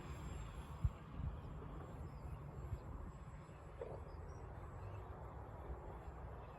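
Outdoor background: wind rumbling on the microphone, with a few faint bird chirps and a single sharp knock just under a second in.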